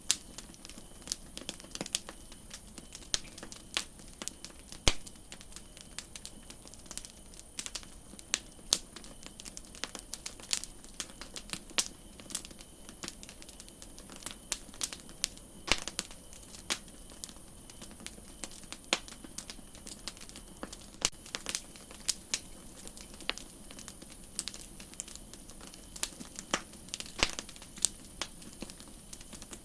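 Campfire crackling: burning wood snapping and popping in irregular sharp clicks over a steady high hiss, which gets a little louder about two-thirds of the way through.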